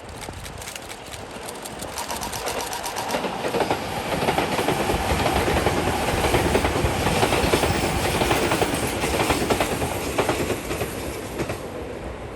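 Electric train passing on the line, its wheels clicking over the rail joints. The noise builds as it approaches, is loudest in the middle and fades near the end.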